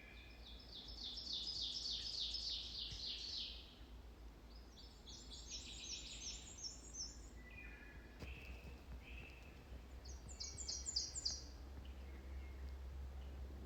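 Black-and-white warbler singing three songs overhead, each a high, thin, rapid run of repeated two-note phrases, the first the loudest. Other songbirds sing more softly in the woods around it.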